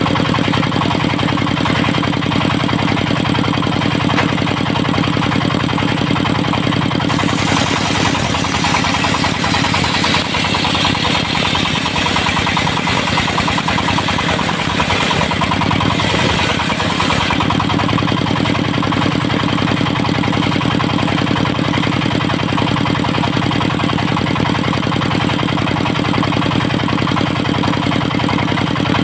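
Diesel engine, tagged as a Dongfeng, running steadily to drive a circular saw. From about a quarter of the way in until a little past halfway, the saw blade cuts into teak wood, adding a higher rushing noise over the engine; after that the blade runs free again.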